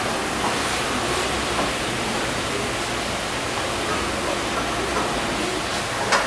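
Food sizzling steadily as it fries and browns in a pan, stirred with a wooden spatula. A brief knock a little after six seconds in.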